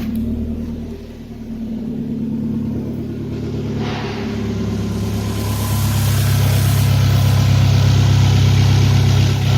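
Ford Mondeo II 2.0 Zetec four-cylinder petrol engine running on a test run: steady at low revs at first, then revved up about four to five seconds in and held at higher, louder revs, dropping back near the end.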